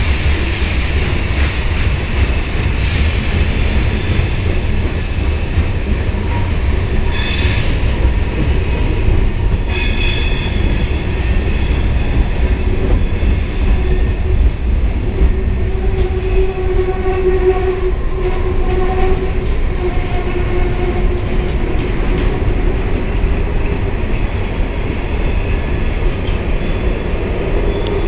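Freight cars (tank cars, then loaded gondolas) rolling past close below, a steady heavy rumble of steel wheels on rail. Squealing tones from the wheels come and go, most of all in the middle of the passage.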